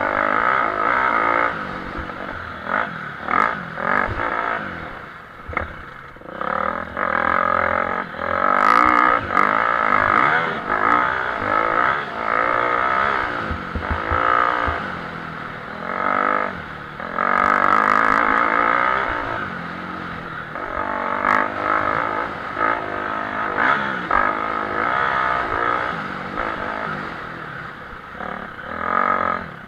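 Motocross motorcycle engines racing, their revs rising and falling over and over as the riders accelerate and back off.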